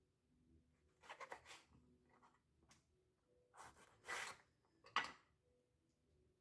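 Faint handling sounds in a small room: a few short rubbing scrapes, then a single sharp click about five seconds in.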